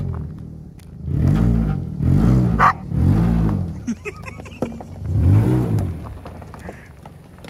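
Car engine exhausting through a rain-gutter downspout, revved in four short blips, each rising in pitch and falling back to idle.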